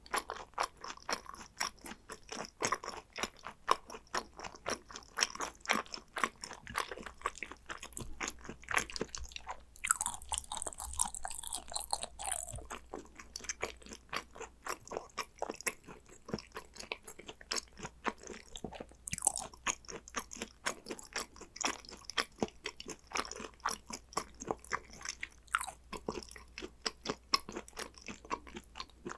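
A person chewing and eating hanwoo yukhoe (Korean raw beef tartare), with many short, crisp crunching bites several times a second.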